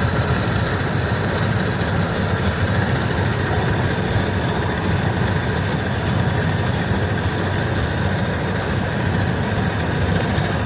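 1929 Ford Model A's four-cylinder engine running steadily under way, with road and wind noise, heard from inside the car.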